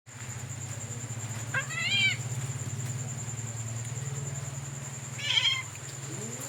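Kitten meowing twice, two short high-pitched calls about a second and a half in and again about five seconds in, over a steady low pulsing hum.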